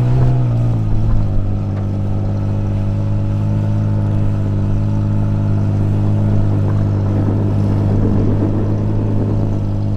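Off-road vehicle's engine running hard at steady high revs on a hill climb, its pitch dipping slightly about a second in and then holding steady.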